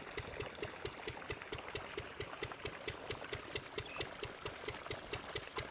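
Stationary village diesel engine running steadily, chugging at an even slow beat of about four to five strokes a second.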